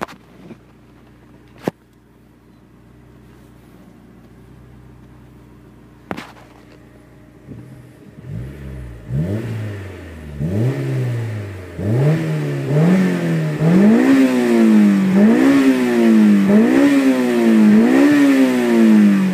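Honda S2000's four-cylinder engine through a custom exhaust, idling quietly, then blipped over and over from about eight seconds in. The revs rise and fall roughly once a second and climb higher toward the end. Two sharp clicks sound during the idle.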